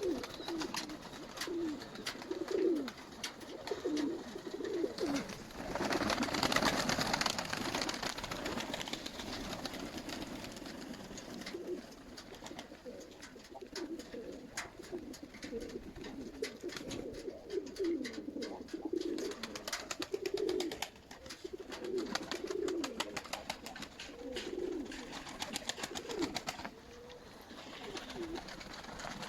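Nikolaev pigeons cooing, low rolling coos repeating every second or two. About six seconds in, a louder rushing noise lasts for a couple of seconds, and light clicks are scattered through.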